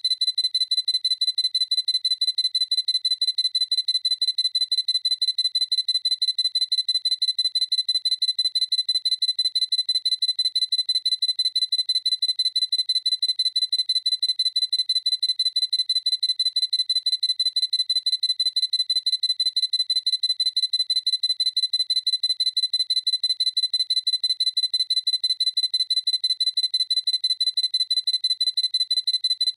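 Sony A7C mirrorless camera's autofocus-confirmation beep, a high electronic pip repeated evenly at about four beeps a second.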